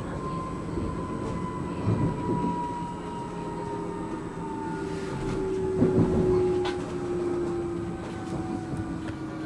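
Electric commuter train heard on board: the traction motors whine with a slowly falling pitch as the train slows for its next stop, over a steady low rumble. The wheels knock over rail joints about two seconds and six seconds in.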